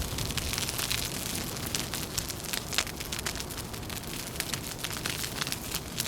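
Wood fire crackling, with many irregular small pops and a sharper snap just under three seconds in, over a steady low rumble.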